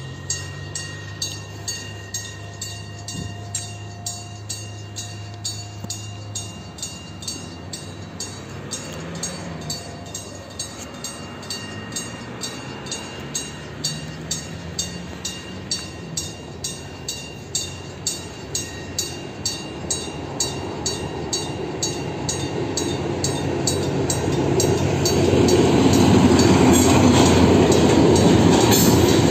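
Level-crossing warning bell ringing steadily about twice a second as a TCDD DE 24000-class diesel-electric locomotive hauling a container freight train approaches. The train grows louder from about twenty seconds in and passes at speed in the last few seconds, its wagons rumbling over the crossing.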